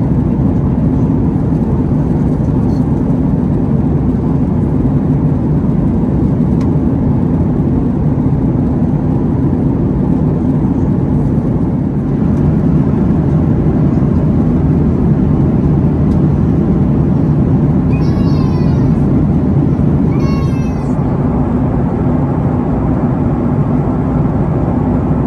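Steady cabin noise of a Boeing 737-800 in cruise: a constant low rush of engine and airflow. About two-thirds of the way in, two brief high-pitched cries cut through it, a couple of seconds apart.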